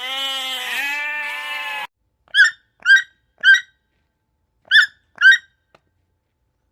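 A long wavering bleat with a rich, stacked pitch, then after a pause five short high squeaky chirps, three in quick succession and then two more.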